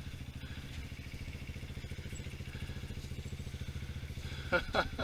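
Honda Africa Twin's twin-cylinder engine idling steadily with an even, low beat. Near the end a brief sound, likely a short call or exclamation from a voice, sounds twice over it.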